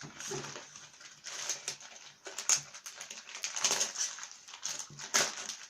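Packaging of a mailed parcel being rustled and torn open by hand: irregular crackling and ripping.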